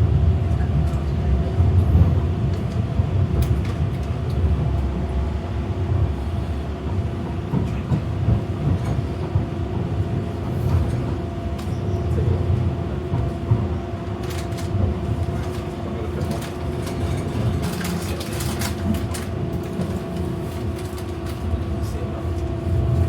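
Docklands Light Railway train running, heard from inside the car: a steady low rumble under a constant hum. A patch of sharp clicks and rattles comes about two-thirds of the way through.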